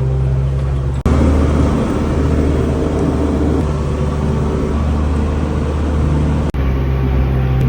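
Tractor engine running steadily under way, a low, even drone with rattling noise over it, broken off for an instant twice.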